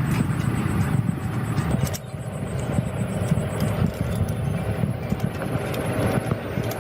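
Homemade electric car rolling along, a steady low rumble with a continuous rattle.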